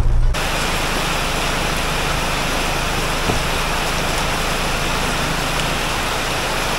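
Steady rain, an even hiss that begins abruptly a moment in and holds level.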